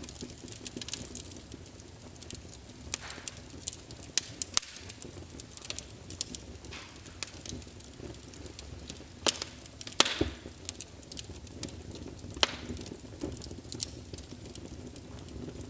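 Wood fire crackling in a fireplace: irregular sharp pops and snaps, a few louder ones past the middle, over a low steady rush of flame.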